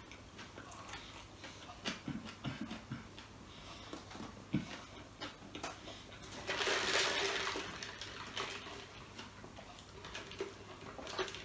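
Close-up chewing and wet mouth sounds of a man eating a burger, with many small clicks, and a louder rush of noise lasting about a second and a half from about six and a half seconds in.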